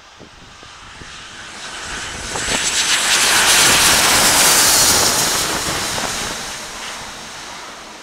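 Jet engines of an Airbus A320-232, IAE V2500 turbofans, as the airliner passes on its landing approach. The sound grows steadily louder to a peak about four seconds in, then fades.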